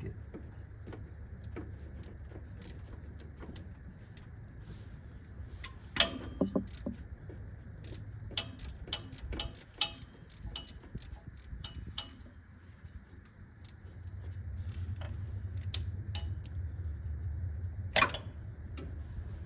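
Hand ratchet and socket working a bolt on the transmission lines, with scattered metal clicks and clinks of tools against the truck. Two louder sharp metal clinks come about six seconds in and near the end.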